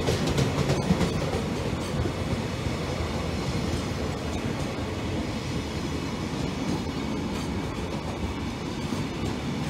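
A freight train's container flatcars rolling steadily past: a continuous noise of steel wheels running on the rails.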